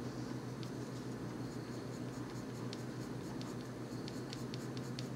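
Colored pencil strokes scratching on paper: short, quick strokes that start about half a second in and come faster, about three a second, in the second half, over a steady low hum.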